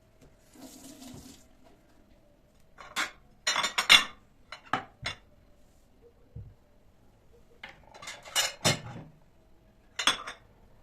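Dishes and cutlery clinking and knocking as they are handled and set down, in several short clusters of clatter with pauses between.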